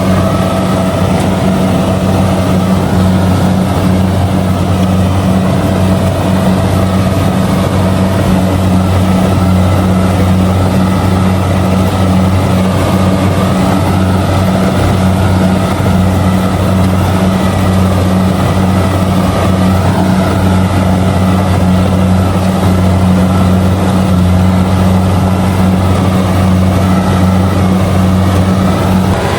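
Kubota DC70G combine harvester's diesel engine running steadily under working load while it harvests rice. The hum stays even, with no change in pitch.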